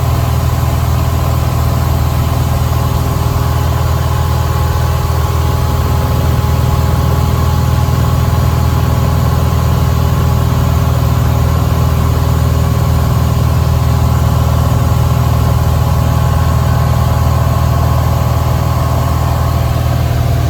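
Cessna 172's piston engine and propeller running steadily in cruise, heard from inside the cabin as a loud, even drone.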